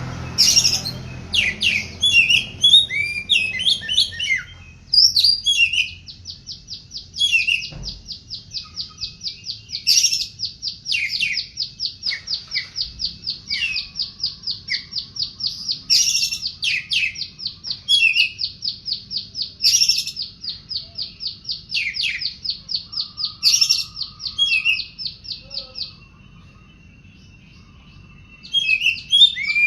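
Oriental magpie-robin (kacer poci) singing hard. It gives loud, varied whistled phrases, then a long, fast run of evenly repeated notes with loud whistles breaking in. The song pauses briefly near the end and then starts again.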